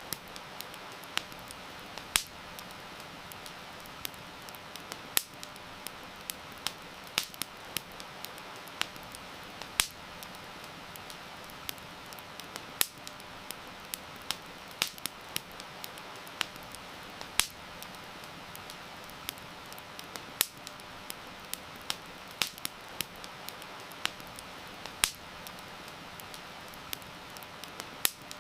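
Wood campfire crackling, with sharp pops at irregular intervals, some much louder than the rest, over a steady hiss of heavy rain.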